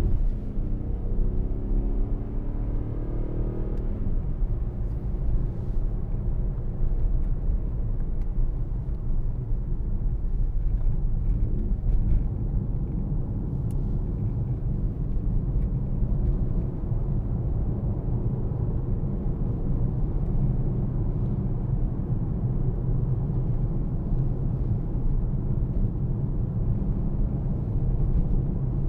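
Mercedes-AMG GLC63 S's 4.0-litre twin-turbo V8 pulling away in Sport mode, its engine note rising over the first few seconds, then settling into a steady low rumble of engine and road noise while cruising.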